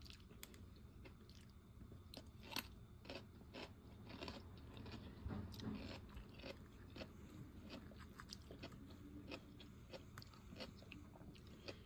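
Close-up chewing with many short, crisp crunches at irregular intervals: a person biting and chewing fresh cucumber slices and smoked fish with rice.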